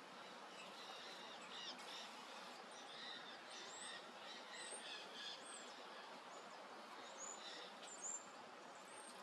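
Faint chatter of a European starling flock: many short chirps and thin whistles, some sliding quickly upward, over a steady outdoor hiss.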